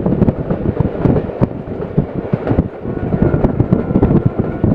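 Passenger train running at speed, heard from on board: a steady rumble with a rapid, irregular clatter of wheels on the track. A faint steady high tone joins about three seconds in.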